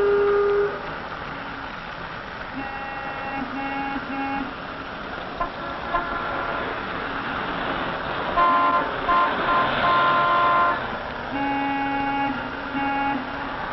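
Street traffic with car horns honking in short repeated toots, several groups of honks over a steady hum of traffic.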